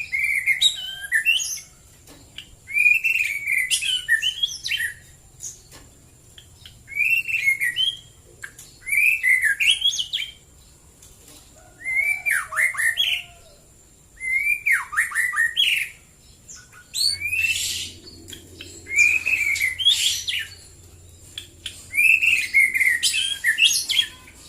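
White-rumped shama (murai batu) singing: short, varied phrases of clear whistles and quick downward sweeps, one every two to three seconds with brief pauses between.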